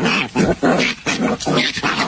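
A dog vocalizing in a quick run of short, pitched barks or yelps, about five in two seconds.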